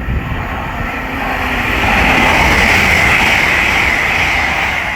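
LNER Class 800 Azuma train passing. Its rumble and rail noise build to a peak about two seconds in, then ease off.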